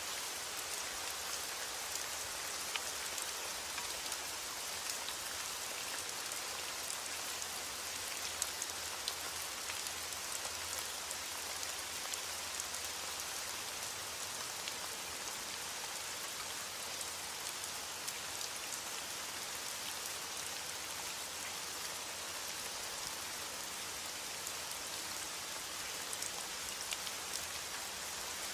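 Heavy rain on a window: a steady, even hiss with many small scattered ticks of individual drops.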